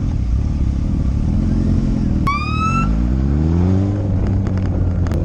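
Motorcycle engine running, rising in pitch as it accelerates about three seconds in. A short high tone that rises slightly cuts in just after two seconds in.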